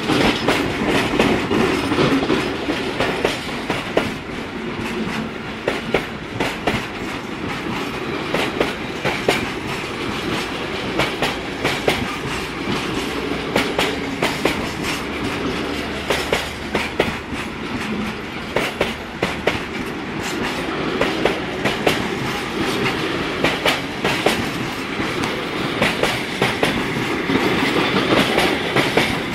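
Freight train rolling past close by, a steady rumble with many sharp clacks from the wagon wheels crossing rail joints.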